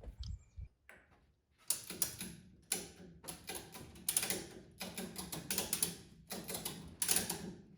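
A ratchet mechanism worked in steady strokes, clicking about every three-quarters of a second after a short quiet start, taking up the straps that lift a truck body off its frame.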